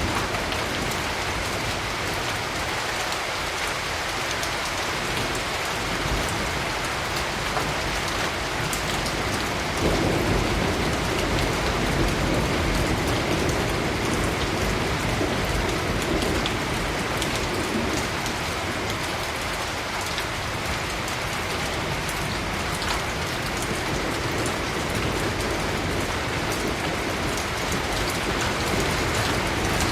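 Steady rain falling, with a low rumble of thunder rolling in about a third of the way through and lasting several seconds.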